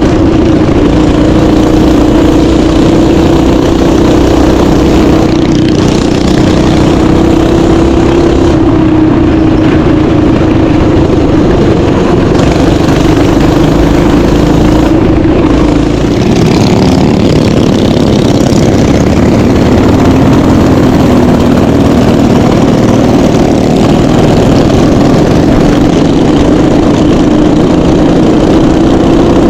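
Small mini bike engine running continuously at a fairly steady throttle, its pitch sagging a little in the second half and picking up again near the end.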